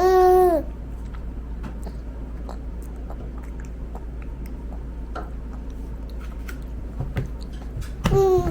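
A toddler's short whining cry, then soft chewing and small clicking mouth sounds while eating, with another brief whine near the end.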